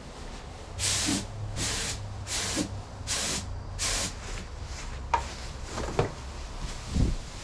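Air paint spray gun fired in five short bursts of hissing spray, laying base coat. A few light knocks follow near the end.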